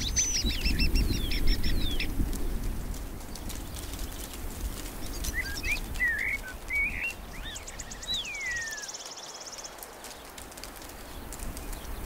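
Small birds singing: a quick run of high repeated notes at the start, a few scratchy chirps and a falling whistle midway, then a short buzzy trill, over a low rumble.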